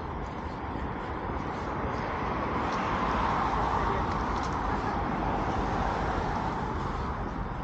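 A car driving past on the street: tyre and engine noise rises to its loudest about three seconds in and then fades.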